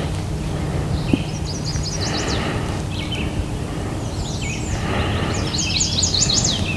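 A songbird singing two phrases of quick, high down-slurred notes, about a second in and again from about four and a half seconds, over a steady low background rumble.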